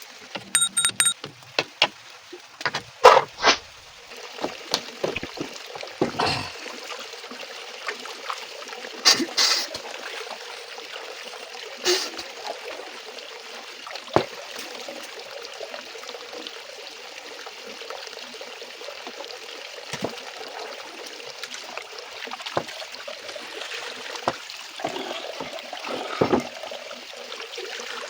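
Water running steadily with a trickling, splashing hiss. There are occasional knocks and clatters, and a quick run of sharp clicks near the start.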